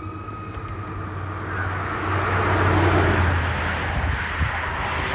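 Fire engine driving past, its engine and tyre noise swelling to a peak about three seconds in and then easing off.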